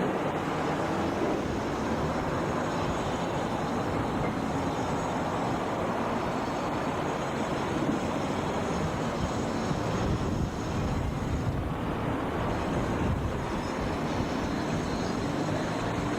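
Meitetsu Inuyama Line electric train running, a steady rumble of wheels and motors with a faint high whine through the middle.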